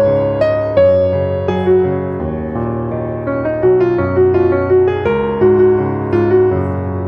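Background piano music, gentle and melodic, with a bass line under a treble melody of struck notes that ring and fade.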